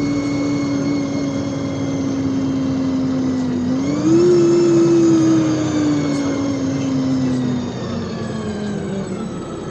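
Inside a moving LiAZ 5292.65 city bus: a steady drive whine over road noise. Its pitch slowly falls, rises and grows louder about four seconds in, then sinks gradually again.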